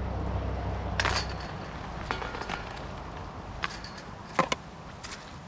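Metal chains of a disc golf basket jangling as a disc strikes them, with a second shorter jangle a few seconds later.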